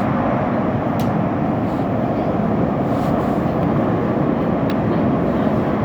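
Steady running noise of an Elizabeth line Class 345 train heard from inside the carriage, an even rumble and rush of wheels on rail, with a few faint clicks.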